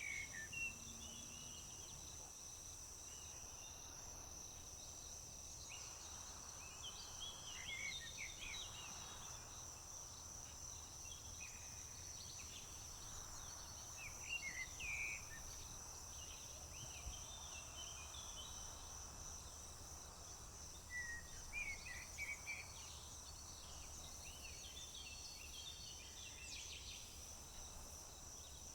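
Crickets trill steadily in a high, even drone, with scattered short bird chirps and calls over it. The chirps are loudest about a third of the way in, midway and about three quarters through.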